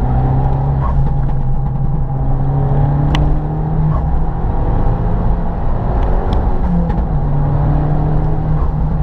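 Abarth 500's turbocharged 1.4 T-Jet four-cylinder engine pulling hard, heard from inside the cabin. Its note sags briefly about four seconds in and climbs again around seven. A sharp click comes about three seconds in.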